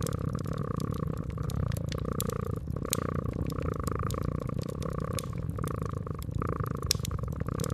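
Domestic cat purring steadily in slow swells, over a wood fire crackling with scattered sharp pops.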